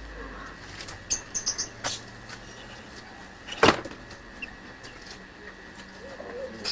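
Birds calling in an aviary: a few short high chirps about a second in and a few short, low rising-and-falling calls near the end, over a faint steady hum. A single sharp knock about three and a half seconds in is the loudest sound.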